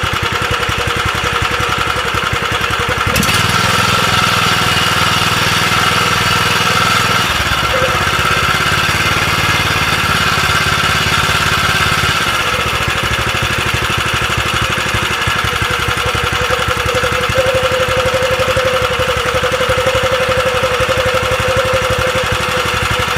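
Robin small engine running steadily, with an abnormal noise coming from inside the engine. Its sound shifts about three seconds in, and again around seven and twelve seconds in.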